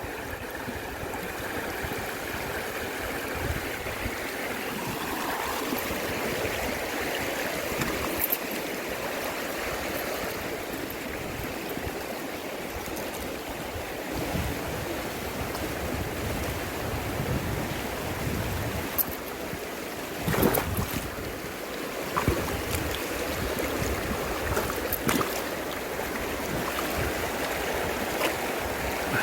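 River water rushing steadily, with a few brief clicks and knocks scattered through it.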